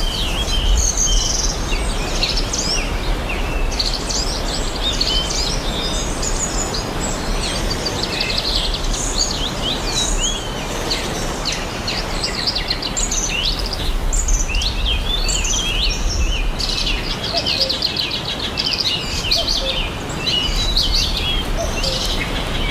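Forest ambience: a dense chorus of many birds chirping and trilling high and fast, overlapping throughout, over a steady hiss and a low rumble.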